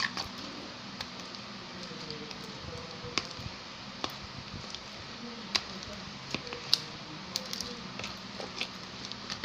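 Glue-based slime being stirred in its container as activator is worked in: sticky squelching with scattered sharp clicks and pops, the loudest about five and a half and almost seven seconds in, over a steady low hum.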